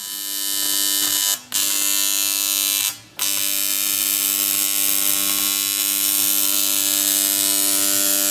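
Electric power tool running at full speed with a steady whine over a loud hiss. It cuts out briefly twice in the first few seconds, then runs on without a break.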